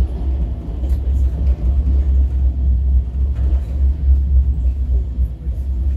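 Steady low rumble of the Netravati Express passenger train running on the rails, with a few faint clicks.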